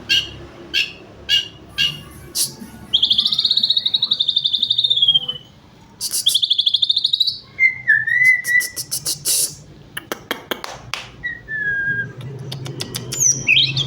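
White-rumped shama singing a varied song: sharp notes repeated about twice a second, then two loud rattling trills, short whistles and rapid clicking notes.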